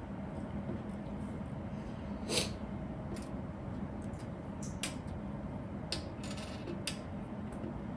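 Small plastic Lego pieces being handled, giving a few scattered sharp clicks, the loudest about two and a half seconds in, over a steady low hum.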